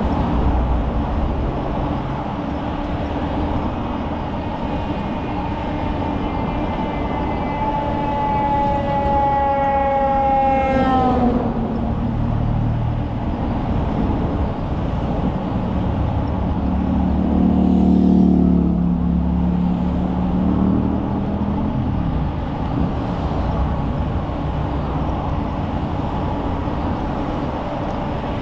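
Steady wind and road rush from a moving bicycle ride. A pitched tone passes and drops sharply in pitch about eleven seconds in, as a passing vehicle's sound does, and a lower hum swells around eighteen seconds and falls away a few seconds later.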